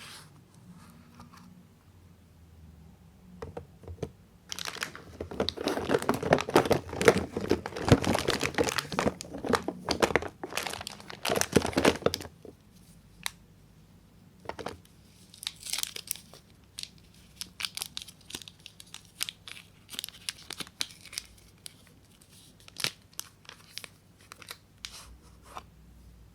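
Wrapping being torn and crinkled off a bar of soap. A dense run of crinkling and tearing comes from about five to twelve seconds in, followed by scattered light crinkles and clicks.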